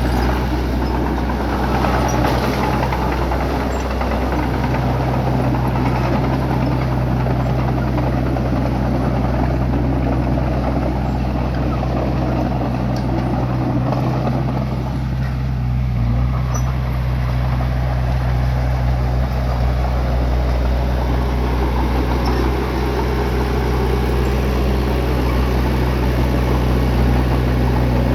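Bulldozer's diesel engine running steadily, a continuous low drone with mechanical noise over it and no pauses.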